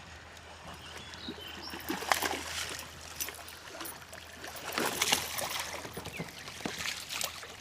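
Water splashing and trickling as a hooked smallmouth bass is fought and landed beside a kayak, in irregular splashes, the loudest about two seconds in and about five seconds in.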